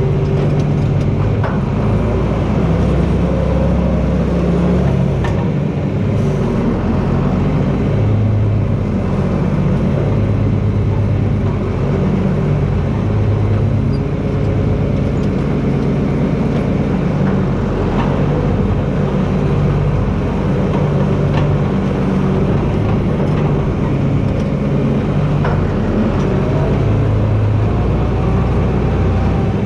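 John Deere 4320 tractor's six-cylinder turbocharged diesel engine running under load as it pushes with a front blade. The engine note shifts up and down as the load changes, with a few sharp cracks or knocks along the way.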